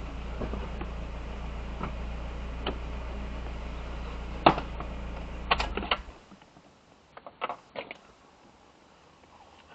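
Car engine idling, heard from inside the cabin, then switched off about six seconds in. There are sharp clicks just before the engine stops and a few softer clicks after it.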